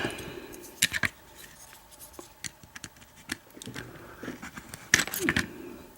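Small metal clicks and light scraping as an American 1100 padlock is taken apart by hand. There are a couple of sharper clicks just before a second in and another about five seconds in.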